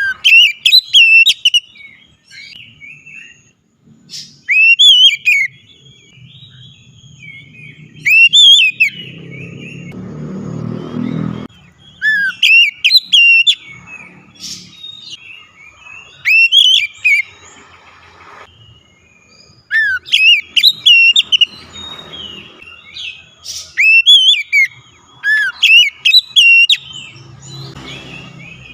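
Oriental magpie-robin (kacer) singing loud whistled phrases of rising and falling notes with quick high twitters, a new phrase every few seconds. A low rumble sounds briefly about ten seconds in.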